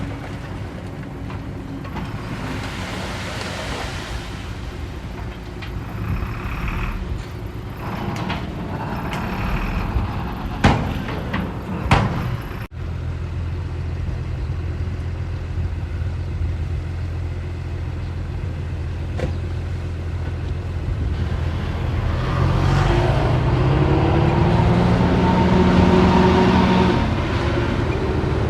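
Heavy diesel earthmoving machine running steadily, with two sharp knocks about ten and twelve seconds in. Near the end the engine revs up, its pitch rising, then eases off.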